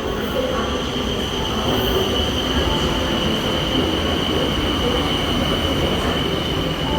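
Bangkok BTS Skytrain train running, a steady high-pitched whine over an even rumbling noise.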